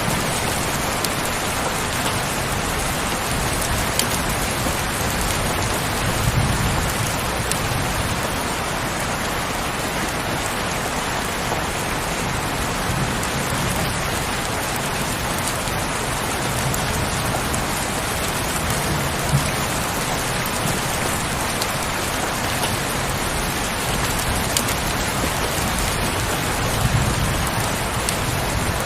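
Steady heavy rain, with scattered sharp drop ticks and a few brief low swells now and then.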